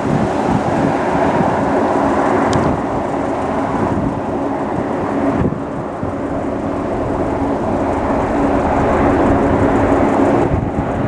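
Strong gusting wind buffeting the microphone, over the steady drone of airliner engines.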